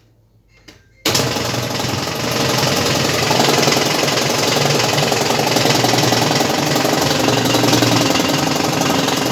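Whirlpool washing machine starting abruptly about a second in with a loud, steady, rapid rattling buzz. It is the strange sound the owner takes for a motor that has seized.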